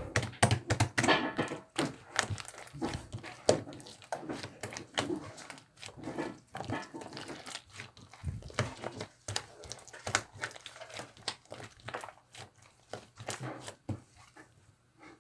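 Slime being squished and stretched by hand: a steady stream of sticky clicks and crackling pops, thinning out near the end.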